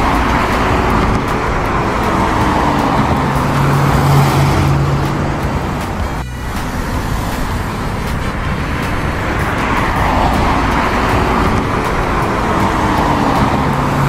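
Looped car engine and road-traffic sound effect: a steady engine hum with tyre noise that swells and fades, the same stretch repeating about every eight seconds.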